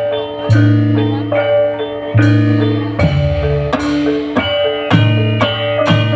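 Javanese gamelan music played live through a loud sound system: struck metallophones ring out a steady run of notes over deep low tones that return every second or two.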